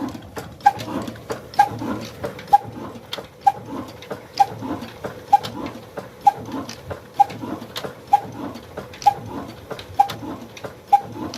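Old Ruston single-cylinder 'black engine' running slowly, with a strong chug about once a second and lighter knocks between the beats.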